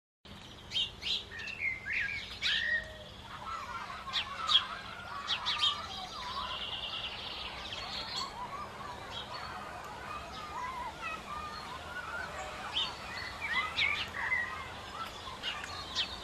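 Many small birds chirping and calling over one another in short, quick notes, over a steady low hum.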